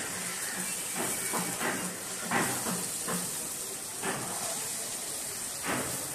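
Okra pieces sizzling in hot oil in a metal wok, with a spatula stirring through them and scraping the pan several times.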